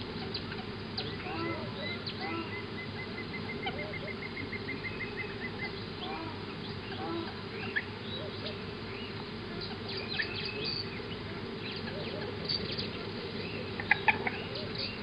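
Wild birds chirping and calling over a steady low background hum. One bird gives an even trill of quick repeated notes for about four seconds starting near the beginning, and sharper, louder calls come near the end.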